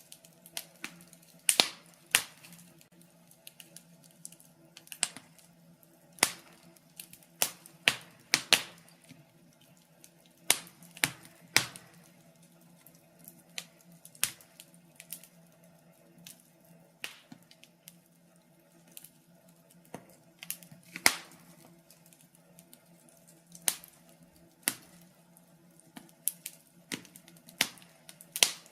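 Wood fire crackling, with irregular sharp pops and snaps from the burning logs over a faint steady hum.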